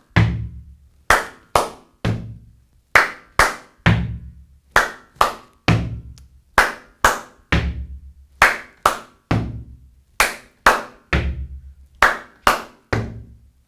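Gumboot dance body percussion: a steady rhythmic cell of hand claps, slaps on rubber boots and stomps. The strikes come in groups of three about half a second apart, the group repeating roughly every two seconds, with one deeper thudding strike in each group.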